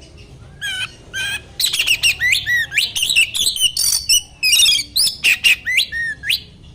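Oriental magpie-robin (kacer) singing. Its song is fast and varied, with high whistles and chattering notes that slur sharply up and down. It starts about a second in and carries on in quick phrases with brief breaks.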